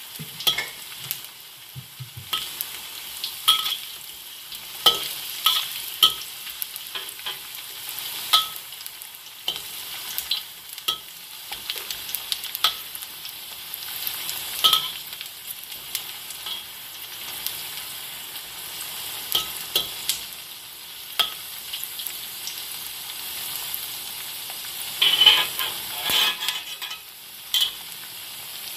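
Aromatics sizzling in hot oil in a wok, with a metal spatula scraping and clicking against the pan every second or so as they are stirred. A louder run of scraping comes near the end.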